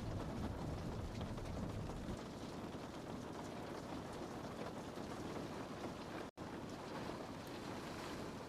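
Steady rain on a window pane: an even hiss with scattered light drop ticks. A low rumble under it fades out about two seconds in, and the sound cuts out completely for a split second a little after six seconds.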